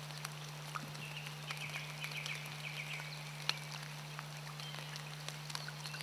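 Faint outdoor nature ambience: soft chirping trills in the first half over a steady low hum, with scattered small clicks, one a little louder past the middle.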